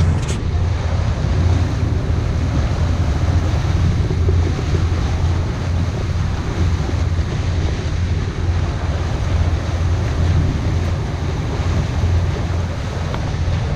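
Wind buffeting the microphone over the low, steady drone of a cruise boat's engine.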